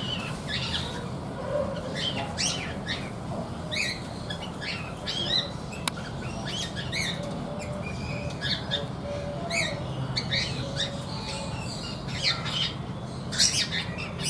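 Cockatiels calling: many short, sharp squawks and chirps in quick succession, sometimes overlapping, with the loudest burst near the end. A steady low rumble runs underneath.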